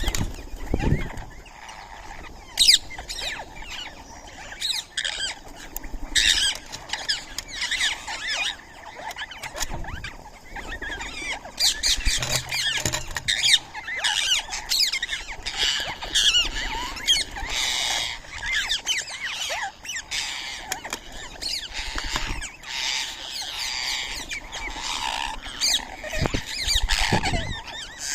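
Birds calling: a continuous chatter of short, high squeaks and chirps, busiest around the middle, with a few dull low thumps.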